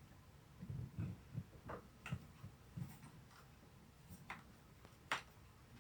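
Faint, scattered clicks and light knocks of something being handled.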